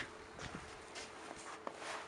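Boots crunching and scuffing in fresh wet snow, a few irregular faint steps, over a layer of ice.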